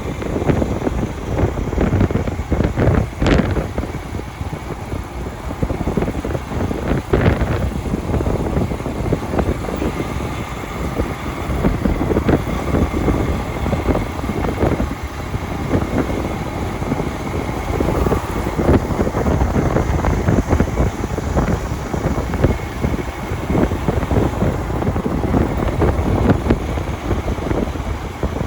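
Wind buffeting the microphone of a motorcycle riding at speed, with engine and road noise underneath. Two brief sharp ticks sound about three and seven seconds in.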